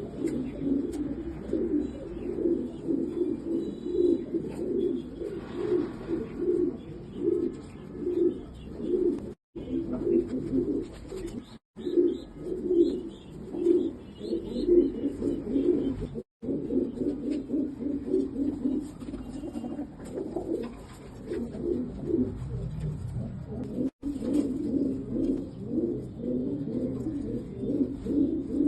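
Domestic pigeons cooing, many low coos overlapping in a continuous pulsing chorus, with a few faint higher chirps around the middle. It breaks off in brief gaps of silence four times.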